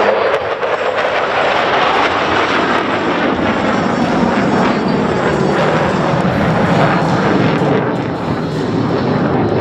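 Loud, steady jet noise from a formation of F-16 fighter jets flying past. It eases slightly about eight seconds in.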